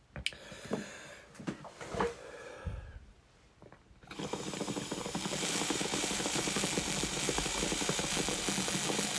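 A few light clicks and knocks, then from about four seconds in a steady, dense rapid rattling: water bubbling through a dab rig as a hit is drawn.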